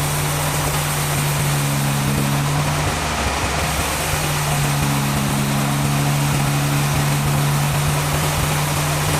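Sawmill machinery running steadily: a constant low motor hum under a loud, even hiss, the hum's upper overtones briefly dropping away about three seconds in.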